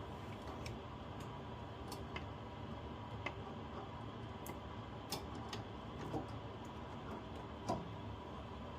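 A few scattered light clicks and ticks, irregular and not in a steady rhythm, over a steady faint hum and hiss.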